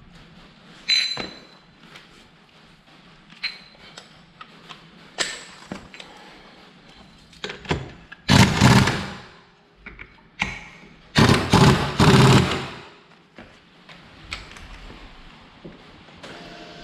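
Metal parts and tools clinking and knocking during reassembly of a scooter's CVT transmission, one clink ringing briefly. Two loud bursts of rushing noise, each about a second long, come near the middle.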